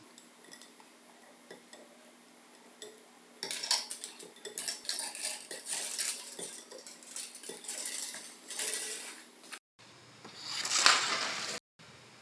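Small metal parts clinking and clattering together as they are handled, in quick irregular clicks, followed after a sudden cut by a short rush of noise.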